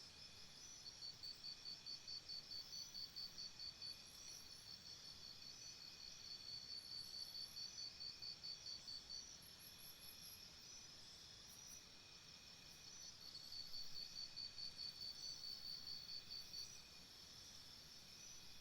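Faint high-pitched insect chirping: trains of rapid pulses a few seconds long, starting and stopping several times over a soft steady background hiss.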